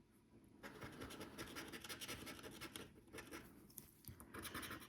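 Faint scratching as the latex panel is rubbed off a lottery scratchcard: a long run of rasping strokes starting about half a second in, then shorter bursts near the end.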